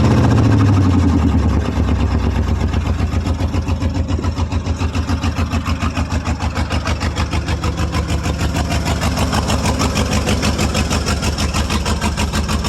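1995 Ford F-150's 5.8-litre (351) V8 settling from a rev back down to a rough idle with a strong, even pulsing beat, missing on two cylinders that don't fire; the owner suspects a blown head gasket or cracked head.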